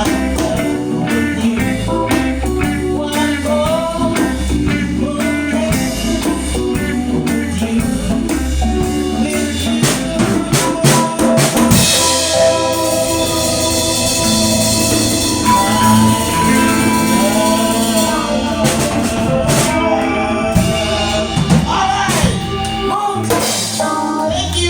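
Live band playing a song with a full drum kit, steady kick-drum beats under it, with a melodic voice or lead line gliding over the top.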